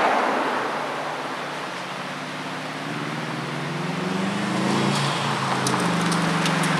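Subaru Impreza WRX's turbocharged flat-four running through a 5Zigen Fireball aftermarket exhaust on the move, over a rushing road and wind noise. About halfway through the revs climb, then the exhaust note holds steady, with a few faint ticks near the end.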